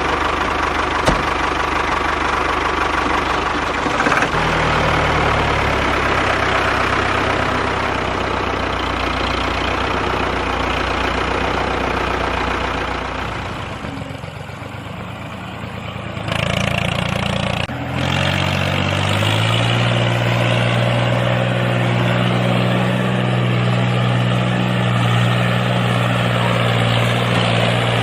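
The motor of a DIY mini tractor running steadily. Its pitch changes a few times, it runs quieter for a couple of seconds near the middle, and it settles into an even hum for the second half.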